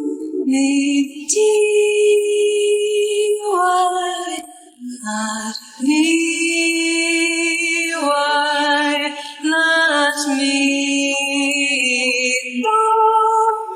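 A cappella female singing voice holding long wordless notes in layered harmony. Each note is held for a second or two before the voices step to a new pitch.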